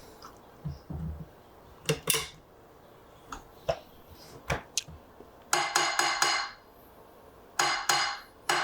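A few scattered taps, then two quick clusters of metallic clinks and rattles that ring, about five and a half and seven and a half seconds in. These are small metal objects being handled and knocked together.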